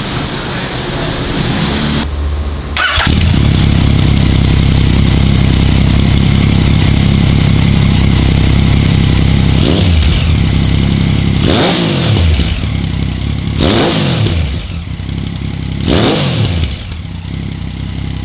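Yamaha MT-09 SP inline-three engine breathing through an Over Racing full-titanium aftermarket exhaust: it idles loudly from about three seconds in, then is blipped four times, each rev rising and falling back to idle.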